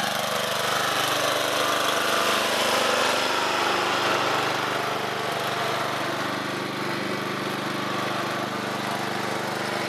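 Old lawn tractor's small gasoline engine running steadily at idle.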